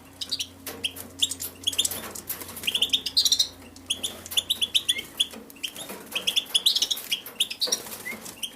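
Several captive finches chirping, with many short, high chirps in quick runs all through, mixed with scattered sharp clicks.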